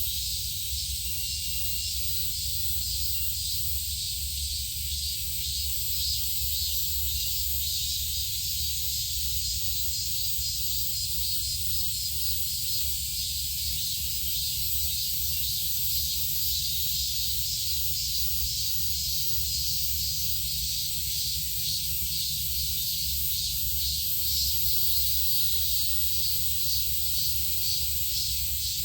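A steady chorus of insects, a dense high-pitched buzzing hiss with a fast pulsing texture, over a low rumble.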